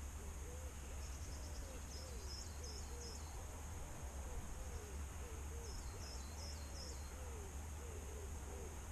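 Dove cooing over and over in low, rising-and-falling notes, with two short runs of high chirps from a small bird, over a steady low rumble.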